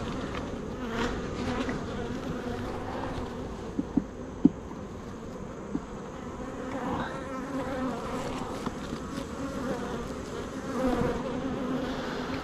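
Honeybees buzzing around an opened hive, a steady many-winged hum from the disturbed colony. A few sharp knocks, one after another, about four seconds in.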